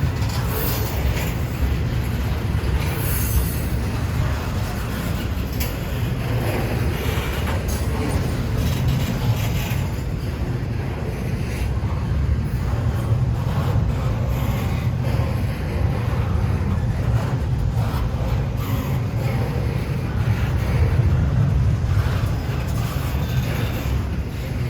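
A freight train rolling past, with a steady low rumble of railcar wheels on the rails and faint scattered clicks.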